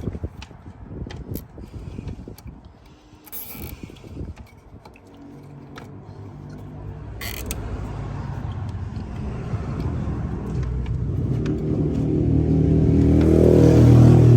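A car engine running with a low steady hum that grows steadily louder through the second half, after a few seconds of scattered knocks and rustling.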